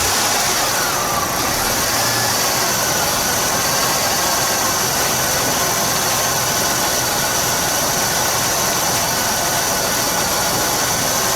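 Buick GM 3800 V6 engine idling steadily just after being started.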